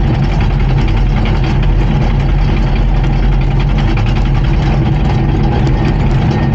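Komatsu D39PX bulldozer's diesel engine running steadily.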